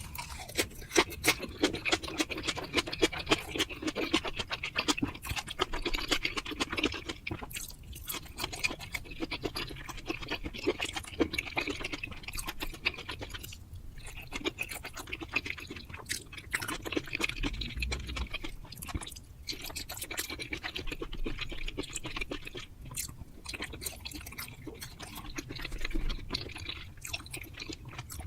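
A person chewing hamachi (yellowtail) fish, with steady wet chewing and many small mouth clicks, broken by a few short pauses.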